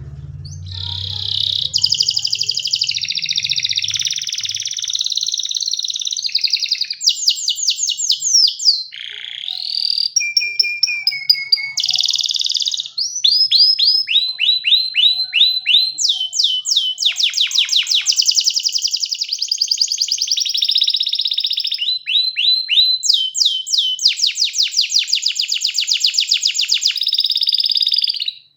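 Domestic canary singing a long, continuous song of rapid trills of repeated notes, switching to a new phrase every second or two. The song cuts off abruptly near the end.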